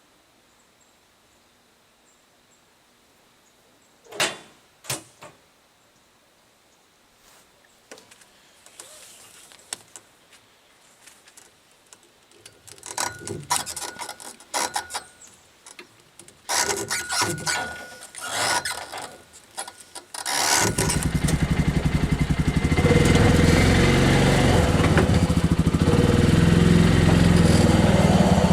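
A few knocks, then clattering and rattling, then an engine starts about two-thirds of the way in and runs steadily and loudly.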